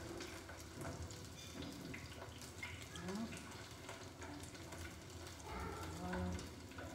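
Breaded pork strips sizzling as they shallow-fry in hot oil in a small pan, with scattered light clicks of chopsticks turning and lifting the pieces.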